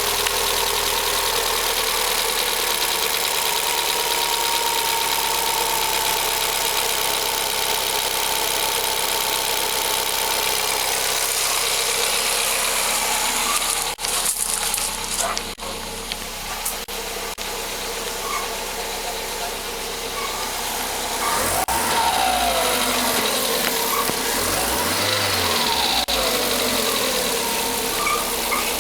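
Volkswagen Gol G6 1.0 four-cylinder engine running after a cold start, with the engine noise that the dealer traced to faulty hydraulic lifters. The running sound is steady for the first half. About halfway through it drops suddenly with a few knocks, and later it turns uneven with wavering tones.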